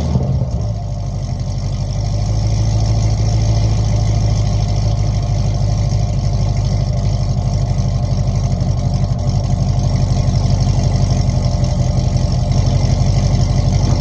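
Car engine fitted with aftermarket headers idling steadily just after start-up.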